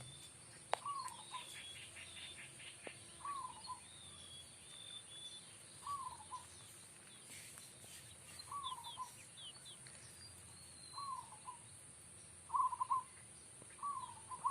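Perkutut (zebra dove) calling: short cooing notes repeated about every two seconds, louder and quicker near the end. Small birds chirp higher and fainter behind them.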